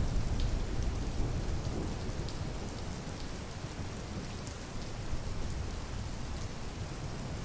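Steady rain, with scattered single drop ticks over a low rumble that is heaviest at the start and eases off.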